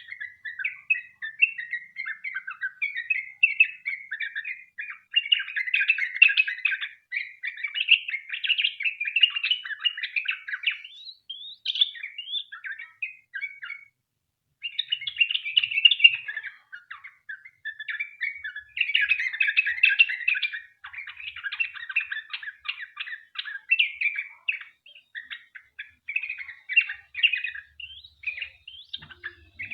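Yellow-vented bulbul (trucukan) singing a long, fast run of chattering notes, broken by one short pause a little before halfway.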